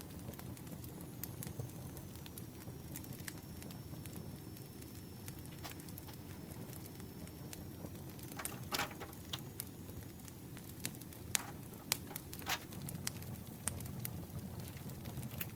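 Campfire crackling: a steady low rush of burning with scattered sharp pops, and a few louder snaps in the second half.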